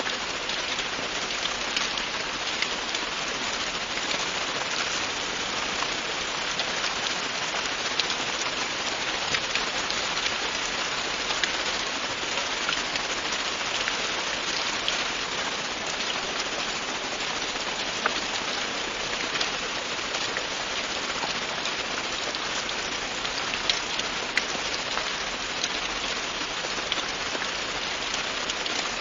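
Steady, continuous rain falling on a surface, an even hiss with scattered sharper drop ticks.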